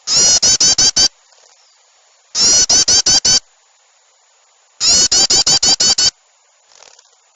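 Agitated alarm chatter of small songbirds from a bird-lure track mixing yellow-vented bulbul and small birds: three bursts of about a second each, made of rapid harsh repeated notes at about six a second, with short pauses between.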